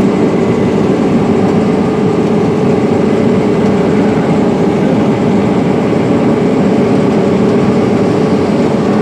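Case IH 8250 Axial-Flow combine running steadily under load while harvesting corn: a constant machine drone with a steady hum.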